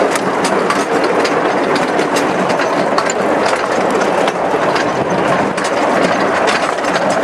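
A 15-inch gauge steam-hauled passenger train running along the track, heard from an open carriage window: a steady rumble of running noise with many quick, irregular clicks and rattles from the wheels and carriages.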